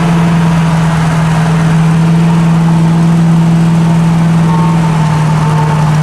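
V8 engine held at a steady raised speed, a loud constant drone that does not rise or fall.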